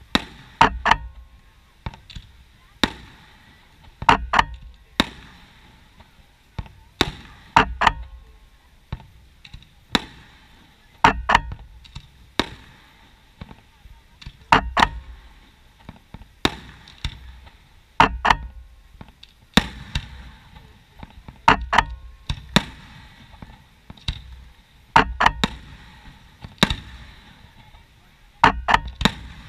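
Fireworks shells bursting in a steady sequence: sharp bangs, mostly in pairs, with another bang about two seconds after each pair, repeating every three to four seconds.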